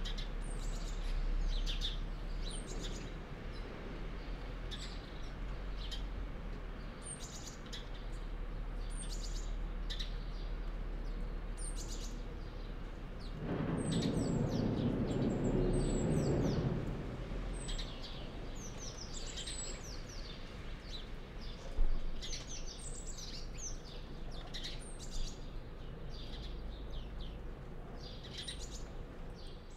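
Several small birds chirping and calling, many short high notes and quick downward-sweeping calls overlapping throughout. A low rumble swells for a few seconds about midway, and a brief sharp knock is the loudest sound, about two-thirds of the way in.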